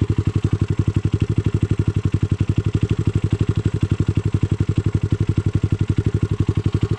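Honda ATC200X's single-cylinder four-stroke engine idling steadily through a CRF230 exhaust, about ten even exhaust pulses a second.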